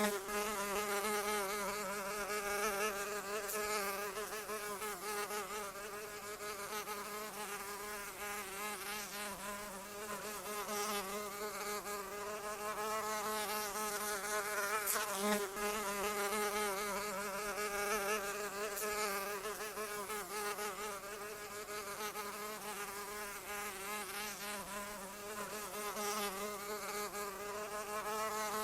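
A flying insect's wings buzzing without a break, the pitch wavering constantly and the loudness swelling and dipping slightly.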